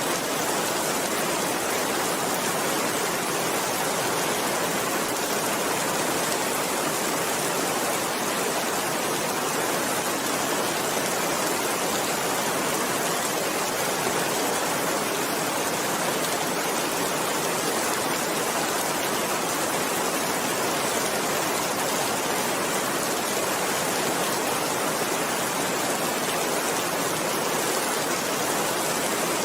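Steady rain falling, an even hiss that neither swells nor fades.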